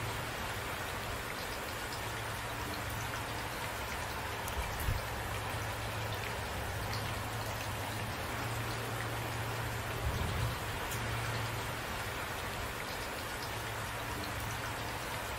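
Steady rain falling, heard as a dense even patter, with a couple of brief low thumps about five and ten seconds in.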